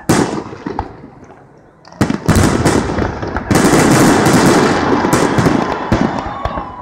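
Fireworks display: a loud bang at the start fades away, more bangs come about two seconds in, and dense crackling follows through the second half.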